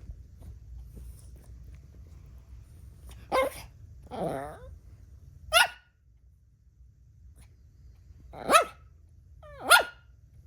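Dog barking: five short, loud barks spread over several seconds, the second one longer with a falling pitch.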